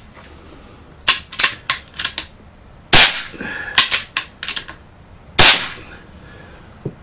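Unsuppressed .22 Marauder Pistol (P-Rod) PCP air pistol firing two sharp shots about two and a half seconds apart. A quick run of lighter clicks comes before each shot.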